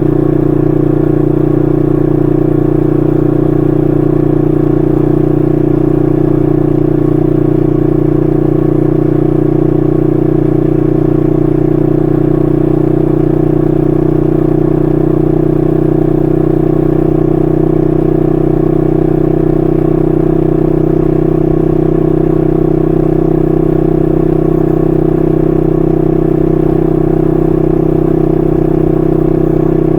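A 1968 Honda Dream CL250's 250cc parallel-twin engine running through its stock mufflers at a steady cruising pace. The note rises slightly about halfway through.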